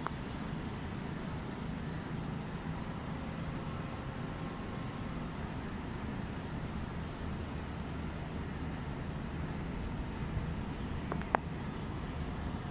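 Low, steady rumble of a distant approaching diesel-hauled passenger train, with short high chirps repeating about three times a second, and a single sharp click near the end.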